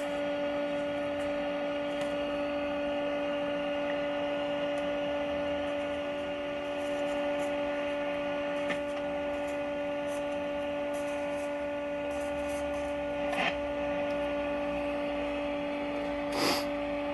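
Steady audio tone from a signal generator coming through the Hallicrafters S-40B tube receiver's speaker during alignment, one unwavering pitch with its octave above and low hum beneath. Two brief sounds break in at about 13 and 16 seconds.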